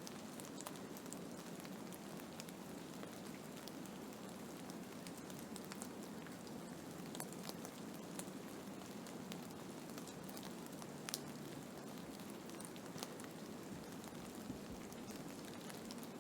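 Blizzard ambience: a steady hiss with many scattered sharp ticks throughout.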